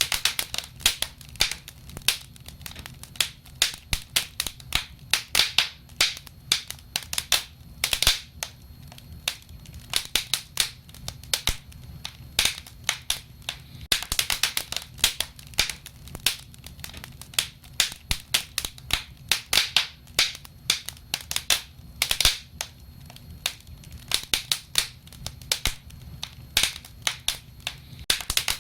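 Wood fire crackling and popping: irregular sharp snaps several times a second, some louder than others, over a faint low rumble of the burning.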